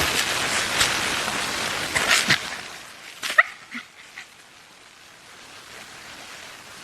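A small dog giving a short high yip about three seconds in, followed by a few fainter whimpers, after a steady hiss that fills the first couple of seconds.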